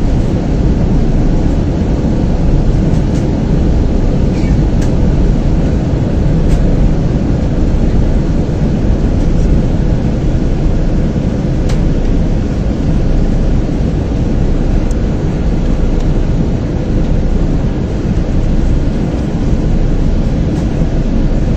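Steady loud low rumble inside an airliner's cabin, the engine and airflow noise of the aircraft coming in to land.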